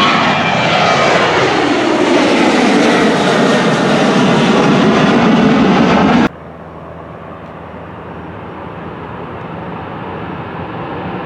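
An airplane passes close by, its engine noise loud and its whine sliding down in pitch as it goes by. The sound cuts off abruptly about six seconds in, and a quieter aircraft engine noise then builds slowly.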